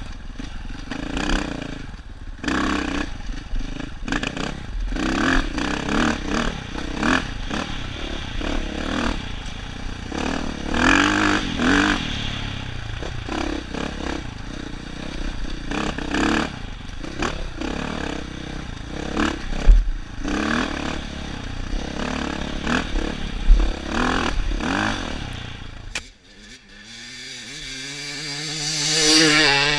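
Dirt bike engine running over rough, rocky single-track, with constant clatter and frequent knocks and scrapes from the bike working over rocks. About 26 s in this stops suddenly, and a dirt bike engine is heard revving, rising in pitch and growing loud toward the end.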